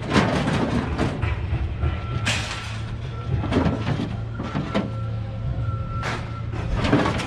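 Scrap metal clanking and rattling as it is handled, a run of irregular knocks and clatters over a steady low hum.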